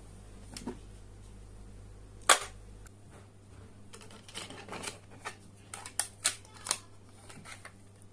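A sharp click about two seconds in, then a run of smaller clicks and taps, typical of small plastic parts being handled. A faint low hum drops out about three seconds in.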